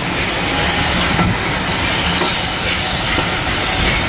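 Steam hissing steadily from the Peppercorn A1 steam locomotive 60163 Tornado.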